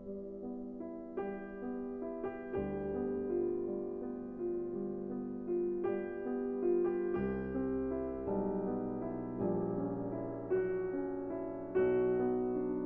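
Slow solo piano music: a melody of single notes over low bass notes held for several seconds each.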